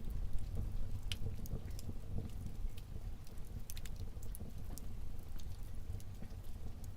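Wood fire burning in a fireplace: a low steady rumble of flames with irregular sharp crackles and pops from the burning logs, several a second at times.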